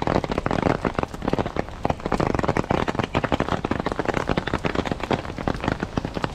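Rain falling on a clear plastic umbrella held just above the microphone: a dense, uneven stream of close, sharp drop taps over the hiss of rain on wet pavement.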